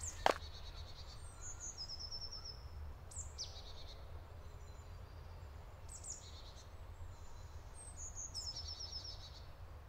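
Woodland birds singing faintly, short high trilled phrases coming every couple of seconds, over a steady low rumble of outdoor background noise. A single crunching footstep sounds right at the start.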